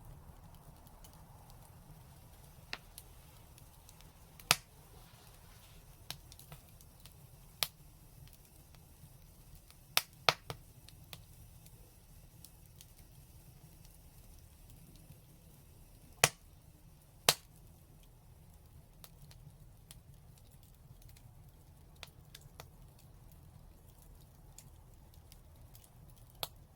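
Wood fire crackling: scattered sharp pops and snaps, a few seconds apart and sometimes in quick pairs, over a low steady rumble.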